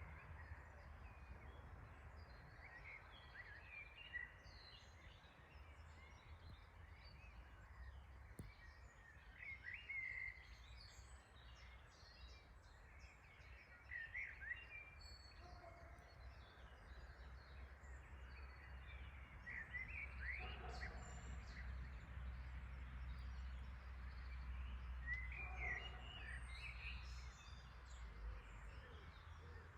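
Faint outdoor ambience of songbirds chirping and calling on and off over a low, steady rumble.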